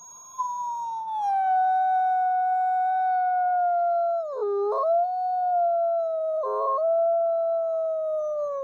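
A wolf howling: one long howl that slowly falls in pitch, dips briefly about halfway, wavers a little later on, and drops lower near the end.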